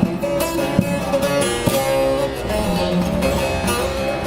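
Bağlama with a carved mulberry bowl being played: a quick plucked and strummed melody over a steady ringing note from the open strings.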